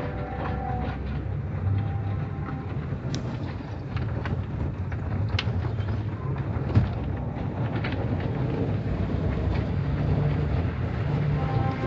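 Automatic car wash machinery running: a steady low rumble with scattered clicks and knocks.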